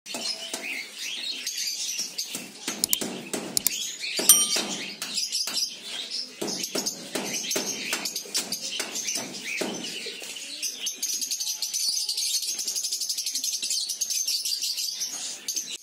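A colony of lovebirds chattering, with irregular squawks and chirps for the first ten seconds and one sharp, louder call about four seconds in; after about ten seconds the calls turn into a fast, steady stream of high chirps.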